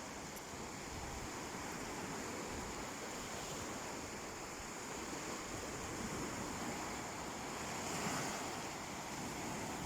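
Sea waves washing onto the shore in a steady surf, one wave swelling a little louder about eight seconds in.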